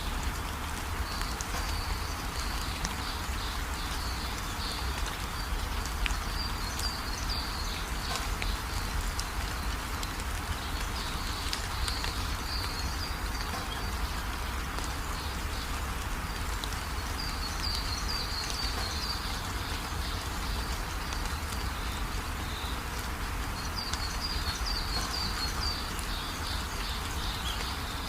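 Steady rain falling, with a low rumble underneath and short bursts of high chirping calls every few seconds.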